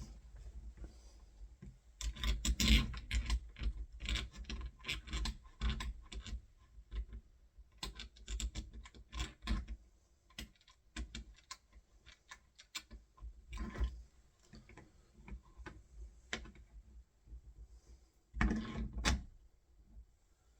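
Door-handle fixing hardware being handled against a hollow door: a long through-bolt being worked into line with a brass locking plate, giving irregular clicks, taps and scratches. There is a busy run of clicking a couple of seconds in and a louder rattling cluster near the end.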